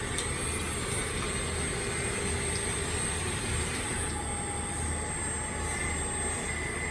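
Radio-controlled CAT 336D2 hydraulic excavator model running: a steady mechanical whir with thin high whining tones from its pump and motors, a further whine coming in about four seconds in as it works.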